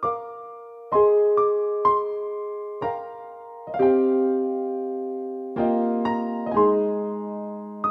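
Slow, soft piano music: struck chords and single notes that ring out and fade, with a few long held chords.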